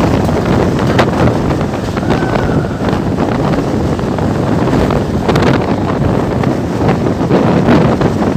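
Strong gusting wind buffeting the microphone, a loud, steady rumbling rush, with a few short sharp knocks, one about a second in and another about five seconds in.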